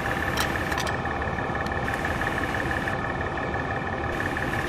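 Departing passenger train, its carriages rolling over the station points. A few sharp wheel clicks come in the first two seconds, over a steady running noise with a constant high-pitched whine.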